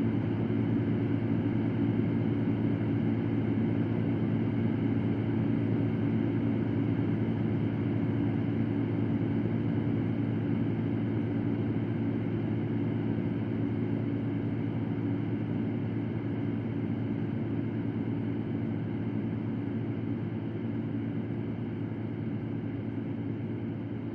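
Electric fan running steadily, an even low whir of air with a faint steady hum in it, growing slightly quieter toward the end.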